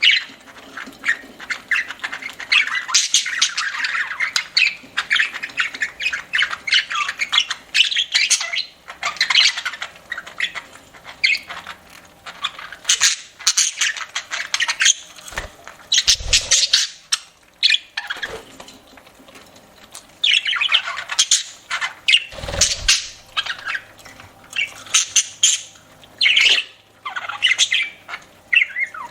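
Pet budgerigars chattering and squawking in quick, irregular runs of calls, with a couple of brief low thumps.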